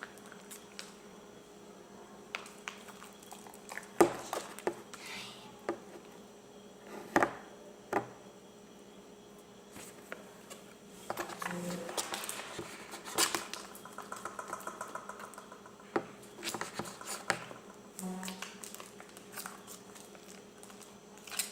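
Thick slime being kneaded and worked by hand in a container, with soft sticky handling noises and a few sharp knocks against the container.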